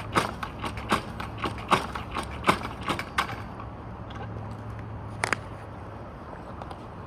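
A series of sharp mechanical clicks, about two or three a second, stopping a little after three seconds in, then a single click later, over a steady low hum that fades near the end.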